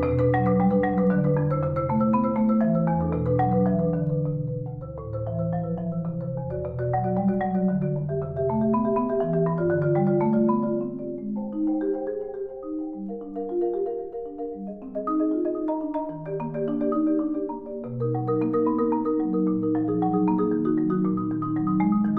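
Solo marimba music: rolled sustained notes in the low and middle register under faster notes above. The passage grows softer about halfway through and swells again near the end.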